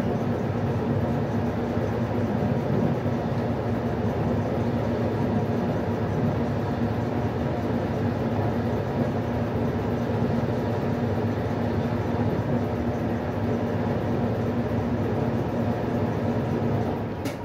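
Westinghouse washing machine running: a steady mechanical rumble with a constant low hum.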